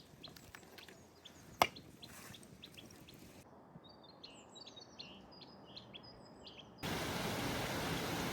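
Small birds chirping and calling, with one sharp click about a second and a half in. Near the end a steady, much louder rushing noise cuts in abruptly and covers the birds.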